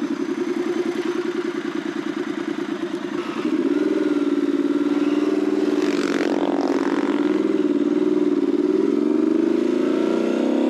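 Triumph Scrambler 1200's parallel-twin engine pulling away: a low pulsing run at first, then louder from about three and a half seconds in, the revs rising, dipping at a gear change around the middle, and climbing again near the end.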